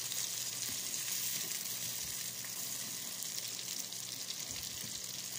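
A paste of blended shallot, garlic and tomato sizzling in oil in a nonstick frying pan as it is stirred with a wooden spoon: a steady crackling hiss.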